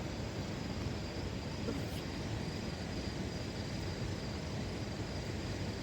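Crickets trilling steadily on one high pitch, over a low, steady rushing noise.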